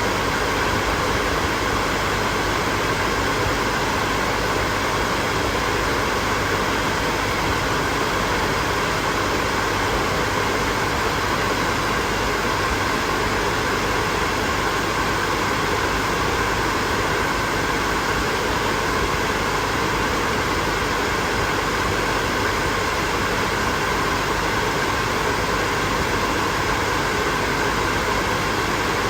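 Hair dryer running steadily: an even rush of blown air with a faint motor whine running through it.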